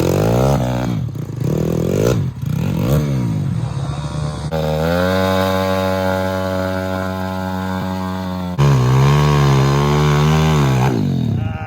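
Single-cylinder pit bike engine revving: a few quick blips up and down, then held at high revs for several seconds. About three-quarters of the way through the note jumps abruptly louder at a different pitch, then drops off near the end.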